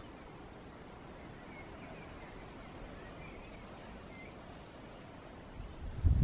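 Quiet open-air ambience with a few faint, short bird chirps. Near the end, wind starts buffeting the microphone with a loud low rumble.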